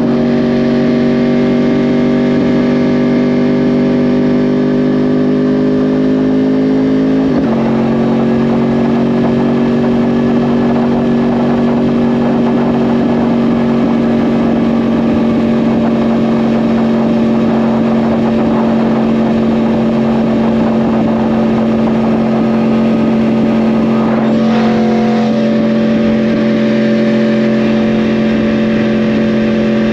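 2010 Yamaha R1's crossplane-crank inline-four, through a Yoshimura exhaust, running under way. Its pitch climbs slowly, drops sharply with an upshift about seven seconds in, then holds at a steady cruise.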